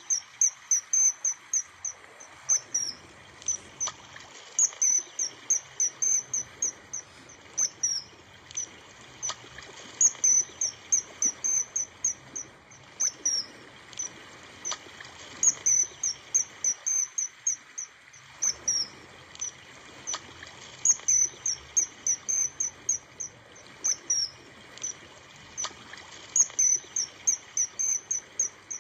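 A bird's high, short chirps in quick runs of about eight to ten notes, each run lasting two to three seconds and coming back every five to six seconds.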